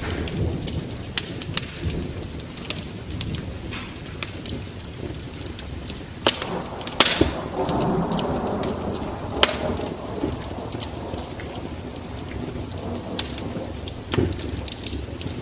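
Wood fire in a fireplace crackling and popping, with irregular sharp snaps over a low rumble of the flames and a louder rush of noise about seven to nine seconds in.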